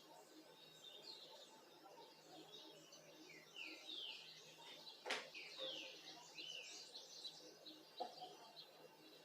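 Small birds chirping faintly, with a run of short falling chirps in the middle. A sharp click about five seconds in, and a lighter one near eight seconds.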